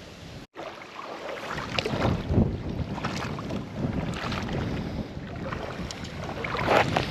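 Wind gusting on the microphone over open water, with irregular water splashes from a kayak on the river.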